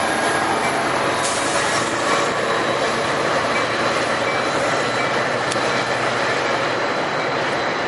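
Passenger train rolling past close by: a steady, loud rumble and hiss of steel wheels on the rails, with faint wheel squeal.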